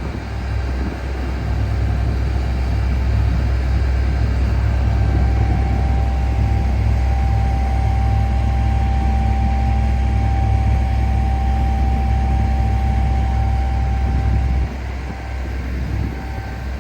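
Big diesel tractor engine running steadily as a deep low drone. A steady high whine joins about five seconds in and fades out near the end. The low rumble drops back a little shortly before the end.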